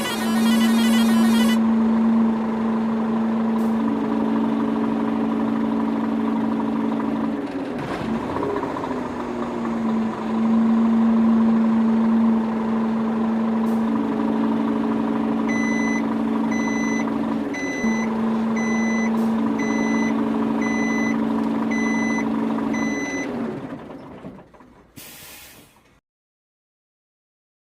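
Small electric motors of a handmade miniature truck and tractor running with a steady whine that steps up and down in pitch as the load changes. Through the middle of it a reversing alarm beeps about once a second, eight times, before the motor sound fades out.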